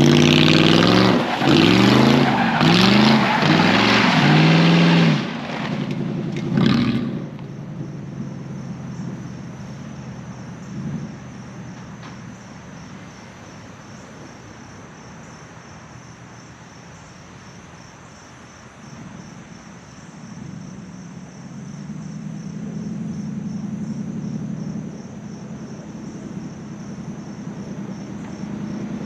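A V8 car engine revving hard in four or five quick rising sweeps, then dropping to a quieter steady running that swells again about two-thirds of the way through.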